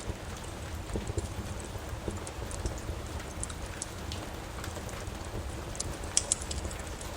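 Wood fire crackling in a fireplace, with scattered sharp pops and a quick cluster of louder snaps about six seconds in, over a steady hiss of rain.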